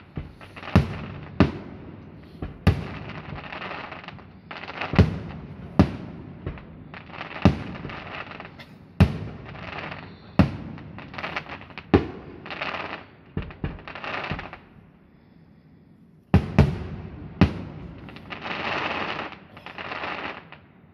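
A fireworks display: aerial shells bursting with sharp bangs every second or two, each followed by a hissing crackle. The bangs pause briefly about fifteen seconds in, then resume.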